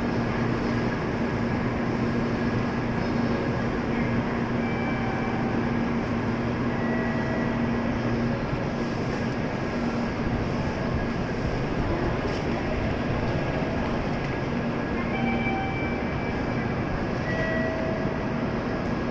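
Steady rumbling noise of an N700-series Shinkansen train at the platform. A low hum drops out about halfway through, and faint short tones sound twice.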